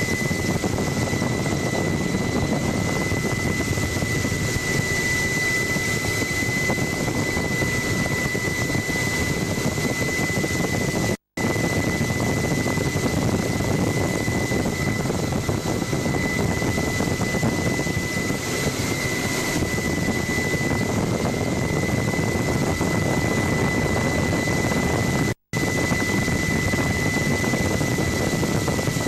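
Helicopter in flight: steady engine and rotor noise with a constant high-pitched whine, cut off twice for a split second.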